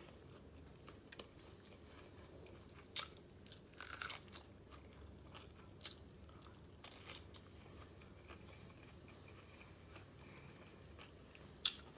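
Biting and chewing a boiled, seasoned corn on the cob close to the microphone: faint, scattered crunches and mouth clicks, a second or two apart.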